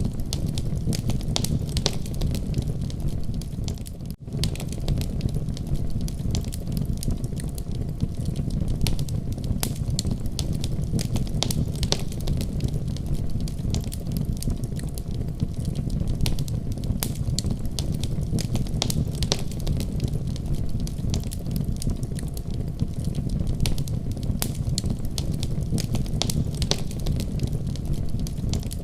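Fireplace fire crackling: a steady low rumble of flames with frequent sharp pops and snaps, and a momentary dip in sound about four seconds in.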